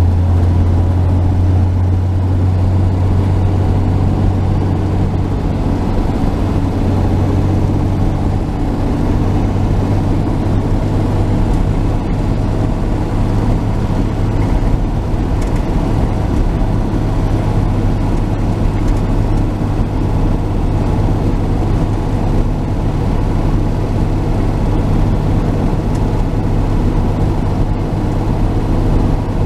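1949 Chevy truck's straight-six engine droning steadily under road noise while cruising; its pitch steps up slightly about eight seconds in.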